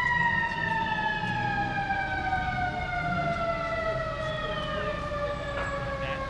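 Fire engine siren winding down, one long slow fall in pitch that continues without a break, over a low engine rumble.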